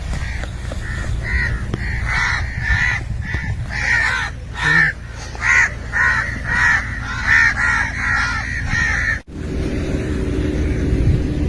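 Crows cawing, many short harsh calls in quick succession, some overlapping. About nine seconds in the calls cut off abruptly and a steady low rumble takes over.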